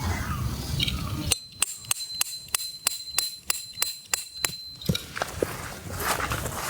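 A run of about a dozen sharp, evenly spaced clicks, about three a second, over a faint steady high ring. They start a little over a second in and stop near five seconds.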